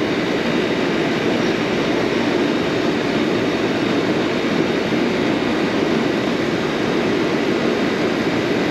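Rooftop air-conditioning condensing unit running, its condenser fan and compressor making a steady, even rush of air. The system is running with far too high head pressure, which the technician puts down to a restriction in the line.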